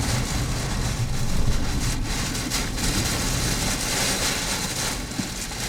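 Steady rushing noise inside a moving vehicle in a storm: low road rumble with wind and rain noise over it.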